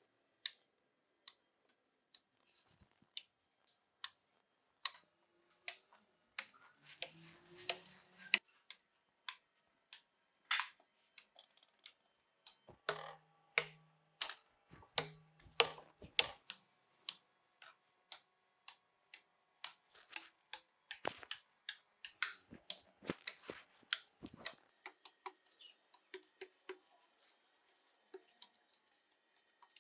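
A run of sharp clicks and taps. They are spaced out at first and come several a second toward the end, with two brief low hums about halfway through.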